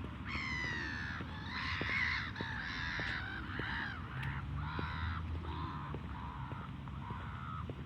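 A bird calling over and over: about ten calls, the first the longest, the rest short and fairly evenly spaced.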